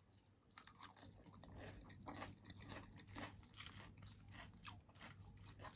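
Faint close-up chewing of crunchy food: a string of small, irregular crunches.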